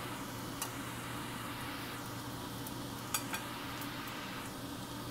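Fried rice sizzling steadily in a stainless steel pan on the stove, with a few clinks of metal spoons against the pan: one clink about half a second in and a couple more around three seconds in.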